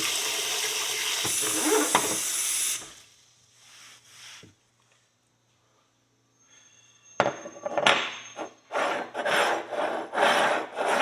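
Knife tip scraping packed dirt and gunk out of the crease of an old pony horseshoe: a steady scrape for the first few seconds, a quiet pause, then a run of quick, short scraping strokes near the end.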